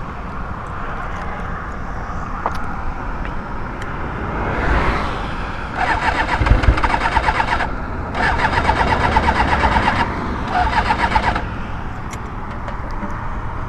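Kawasaki ZX-6R motorcycle's electric starter cranking the engine in three bursts, about two seconds, two seconds and one second long, each cutting off without the engine catching: a hard-starting bike whose fault the rider puts down to its carburettors.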